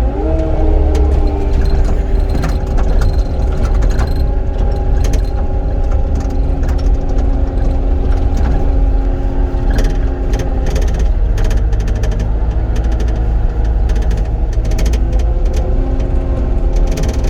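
Cat 259D compact track loader's diesel engine revving up in the first half second, then running steadily at working throttle, its pitch dipping briefly around the middle and rising again near the end. Scattered clicks sound over the engine.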